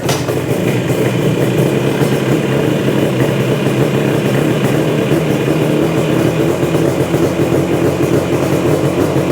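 Yamaha RD400's air-cooled two-stroke parallel twin running steadily just after firing up. It is a first start after sitting unused for a long while.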